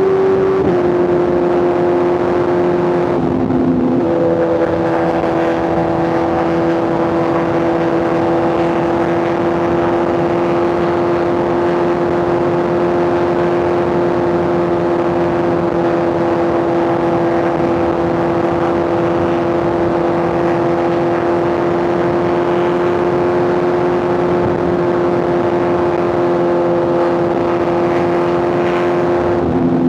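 Superbike inline-four engine and exhaust running at a high, nearly constant rpm while cruising on the highway, over wind and road noise. The pitch briefly shifts about four seconds in and again near the end.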